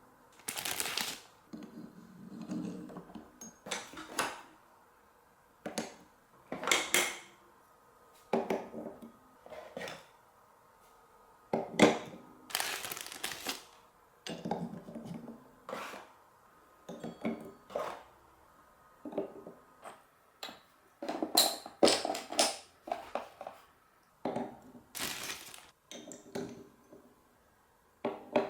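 Glass marbles rolling and clattering through a block marble run: a string of sharp clicks and short rattling runs as marbles hit and drop along the track, with brief rolling rumbles between the knocks.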